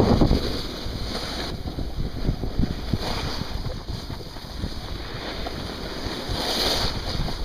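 Wind buffeting the microphone: a continuous rushing noise with a heavy low rumble.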